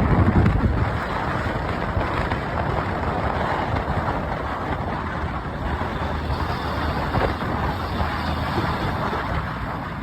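Wind rushing over the microphone of a moving motorcycle, with the bike's running noise underneath, a little louder in the first second and then steady.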